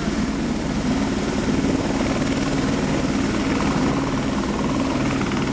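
Helicopter running steadily, its rotor and engine making a constant loud drone.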